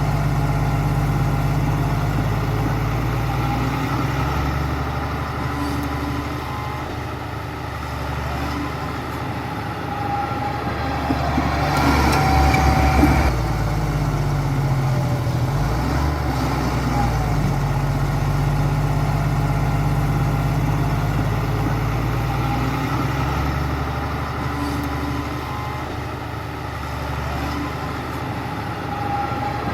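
Heavy construction machine's diesel engine running continuously, its pitch shifting up and down as the engine speed changes, loudest about twelve seconds in.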